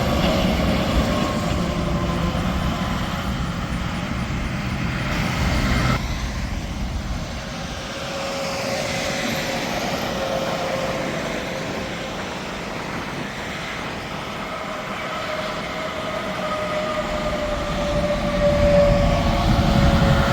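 Interstate highway traffic going by: the tyre and engine noise of passing trucks, with pitched tyre whine that slowly falls in pitch as each vehicle passes. It eases off around the middle and builds again near the end as more traffic approaches.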